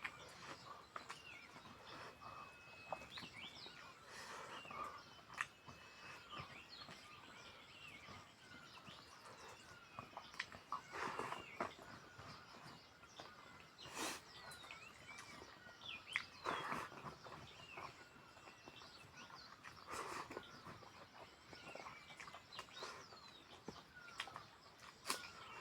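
Faint birds chirping throughout, with scattered clicks and a few short, louder noises.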